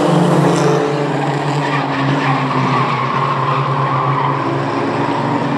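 A pack of short-track racing trucks running at full throttle, several engine notes overlapping as the field races together.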